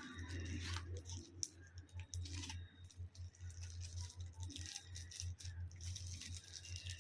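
Small clicks, rattles and rustling from objects being handled at close range, over a steady low hum.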